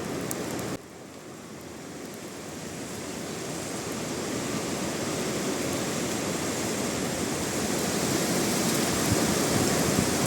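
Wind blowing, a steady rushing that dips about a second in and then slowly builds up.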